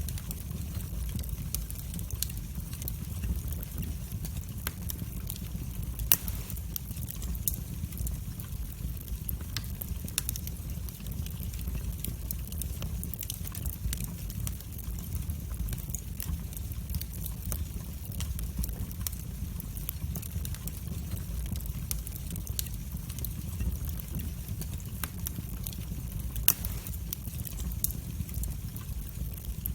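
Wood fire burning in a fireplace, with a steady low rumble of flames and frequent sharp crackles and pops, two of them louder than the rest.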